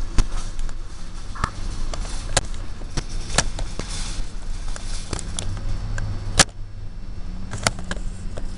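Double-stack container freight train rolling past: a steady low rumble with scattered sharp, irregular clanks from the cars.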